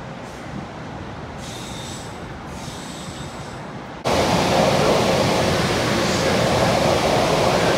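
NJ Transit train approaching, a low rumble with a faint high-pitched whine for about two seconds. About four seconds in the sound cuts abruptly to a much louder, steady rushing noise.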